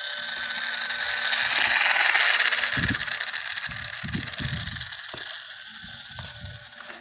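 Battery-powered RC plane's electric motor and propeller whining under throttle on a takeoff roll, swelling to a peak about two seconds in and then fading. Wind buffets the microphone in low gusts during the second half.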